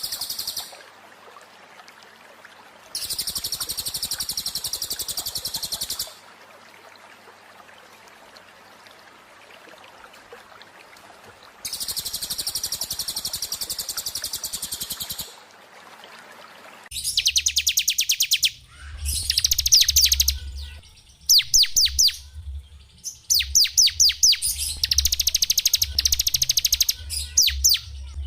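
Small songbirds singing. First comes a high, fast buzzy trill of about three seconds, given twice with a pause between. From about 17 s a different bird sings a denser run of rapid trills and quick down-slurred notes over a low hum.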